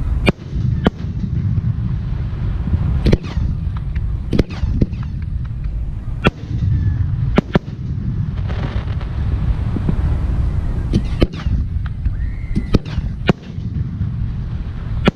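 Fireworks display: aerial shells bursting in a string of sharp bangs, about a dozen at irregular intervals, over a steady low rumble.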